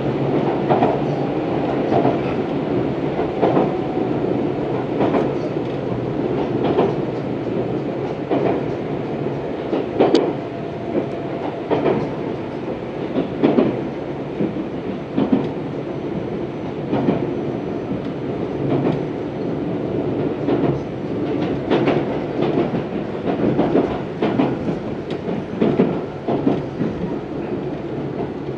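Tobu 634-series electric train running at speed, heard from inside the car: a steady rumble with the wheels clicking over rail joints every second or two.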